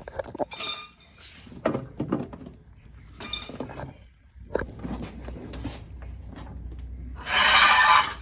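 Metal hand tools and parts clinking and knocking during work on a golf cart, several separate strikes, some with a short metallic ring. Near the end comes a loud rushing burst lasting under a second.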